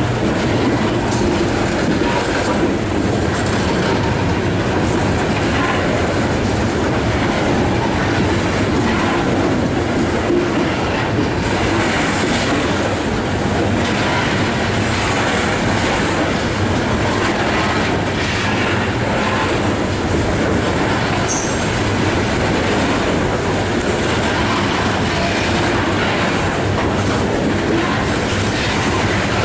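Coal hopper cars of a slow freight train rolling past, a steady rumble and clatter of steel wheels on the rails.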